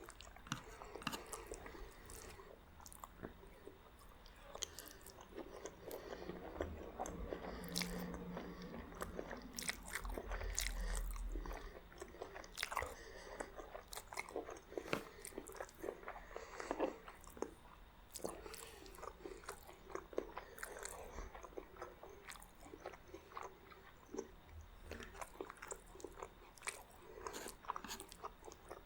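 Close-miked eating of meat spaghetti and garlic bread: steady chewing and biting with many short crisp crunches and wet mouth clicks.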